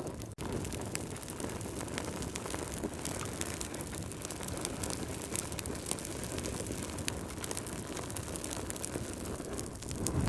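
Fireplace fire crackling: a steady rushing rumble with many small sharp pops scattered through it. The sound drops out for an instant about a third of a second in.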